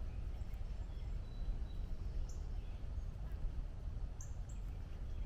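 A few short, faint bird chirps over a steady low outdoor rumble.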